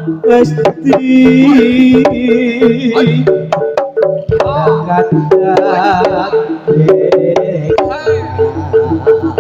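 Live jaranan gamelan music: hand-drum strokes and repeating gong-chime notes under a wavering melody line.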